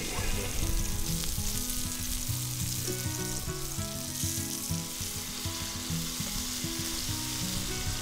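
Sliced hotdogs sizzling steadily as they fry in oil in a frying pan, with tongs turning them now and then. Soft background music with held low notes plays underneath.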